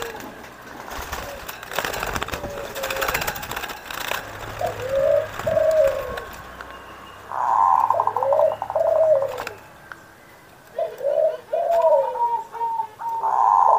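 Zebra dove (perkutut) singing its cooing song, three phrases of short rolling coos a few seconds apart. A rough buzzing sound joins the second and third phrases, and crackly noise comes in the first few seconds.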